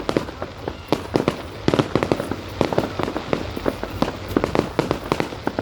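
Fireworks going off, a rapid irregular string of bangs and pops, several a second.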